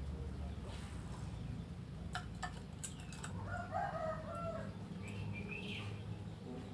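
Birds calling: a pitched call lasting about a second near the middle and short high chirps near the end, with a few sharp clicks before the call, over a steady low hum.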